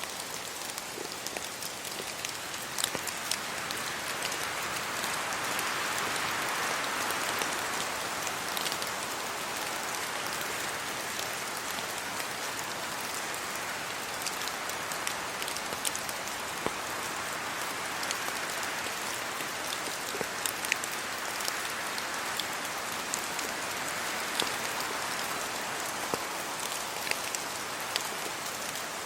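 Steady rain falling on leaves and a road, with many scattered sharp drip hits, and a broad surge of rushing noise that builds and eases a few seconds in.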